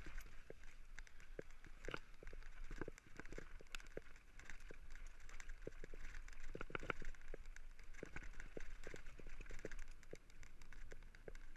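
Faint, irregular clicks and knocks over a steady low hum, with no music or speech.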